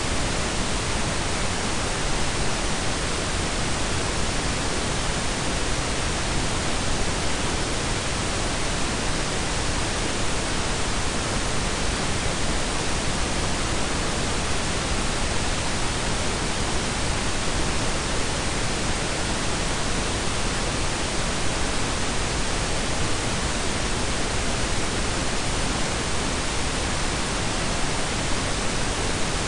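Synthetic blend of pink and brown noise: a steady, even hiss that is fuller in the low end, unchanging throughout.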